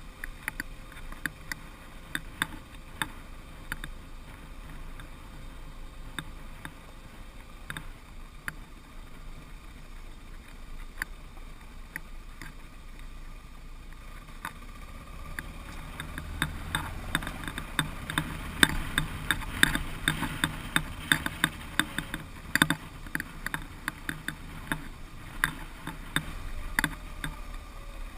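Dual-sport motorcycle ridden down a rough unpaved track: a low rumble under a constant clatter of sharp knocks and rattles from the bike and camera mount jolting over stones, getting busier and louder about halfway through.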